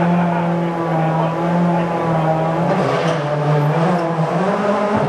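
Rally car engine running at high, fairly steady revs, its note dipping briefly about three seconds in and then rising again.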